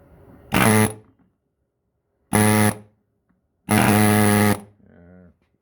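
Impact wrench fired in three bursts, two short and then a longer one, each a loud buzzing rattle, with a faint short buzz after.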